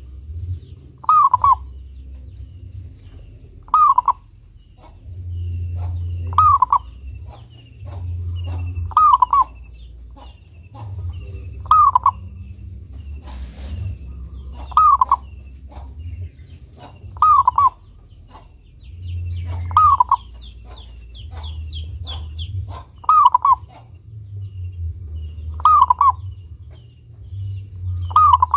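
Male zebra dove (perkutut) singing, repeating its short cooing phrase about every three seconds, with faint high chirps between the phrases and a low rumble underneath.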